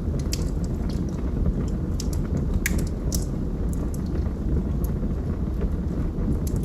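Log fire crackling: a steady low rumble of burning wood with scattered sharp pops and snaps, the loudest a little under halfway through.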